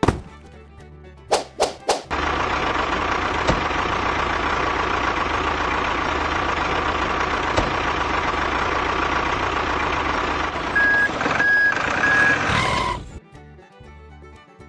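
A few sharp knocks, then a steady truck engine sound running for about eleven seconds, with three short reversing beeps near its end before it cuts off.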